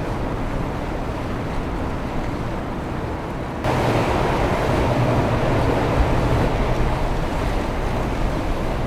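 Boat engines and water wash on the river, with wind on the microphone. About a third of the way in the sound jumps abruptly louder, with a low engine hum added.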